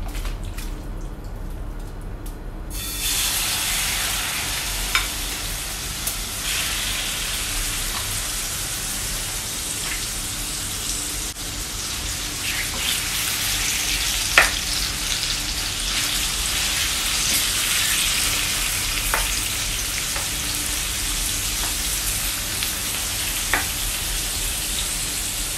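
Sliced pork liver hitting hot cooking oil in a frying pan and sizzling, the hiss starting suddenly about three seconds in and then holding steady. A few sharp clicks of the spatula against the pan sound as the liver is stirred.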